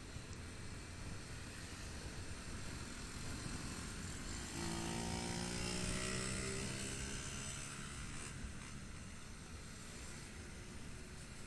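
Motorcycle ride through city traffic: a steady bed of engine and road noise, with a vehicle's engine growing louder about halfway through, loudest around the middle, then fading a few seconds later.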